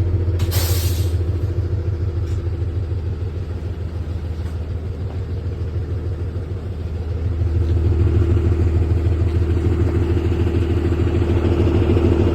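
Diesel engine of a 2018 Thomas HDX school bus running with a steady, rapid low pulsing from the exhaust, growing louder at about seven and a half seconds in. A short hiss about half a second in.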